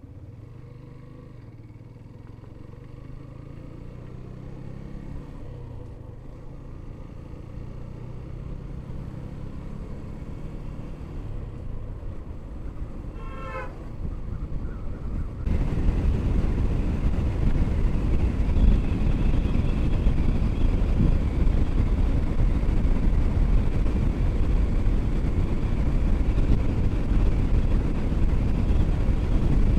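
Motorcycle riding on the highway: the engine note grows steadily louder over the first half, with a brief horn toot about 13 seconds in. From about 15 seconds in, loud wind noise on the microphone covers everything.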